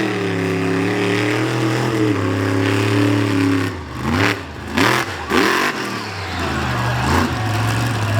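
Monster truck engine running at a steady high idle, then revved in a few quick blips around the middle before settling back to a steady run.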